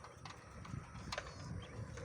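A few faint, irregular clicks or knocks over quiet outdoor background noise.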